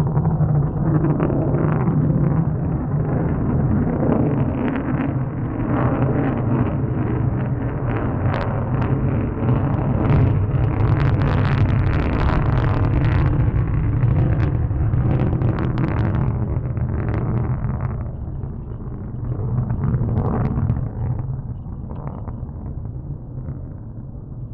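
Jet noise from a Panavia Tornado's twin RB199 turbofan engines in flight: a loud, steady rumble with a crackling rasp that is strongest in the middle. It eases after about eighteen seconds and fades near the end.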